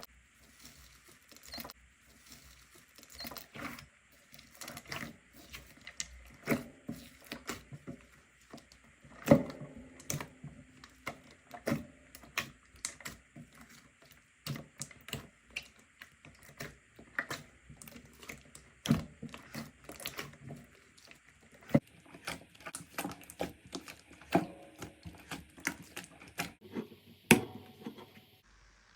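Slime being squeezed and poked, giving irregular sticky clicks and pops, several a second, with a sharper pop about nine seconds in and another near the end.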